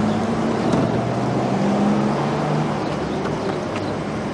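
Lexus sedan's engine idling, a steady low hum.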